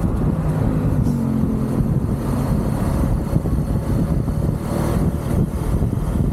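UM Renegade Commando 125 motorcycle's 125 cc engine running under way, its pitch shifting slightly about a second in, mixed with steady wind and road noise.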